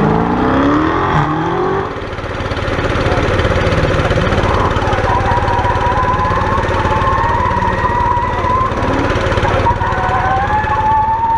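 Dodge Hellcat's supercharged V8 revving up as it accelerates, then tyres squealing in long wavering tones from about four seconds in and again near the end. Under it all runs the steady drone of an air compressor.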